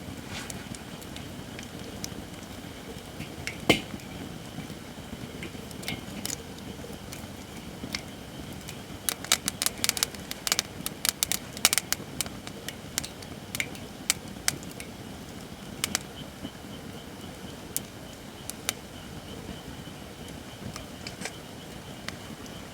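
Japanese white oak firewood burning in an open fire, crackling with scattered sharp pops over a steady low rush of flame. One loud pop comes about four seconds in, and a quick run of pops follows about nine to twelve seconds in.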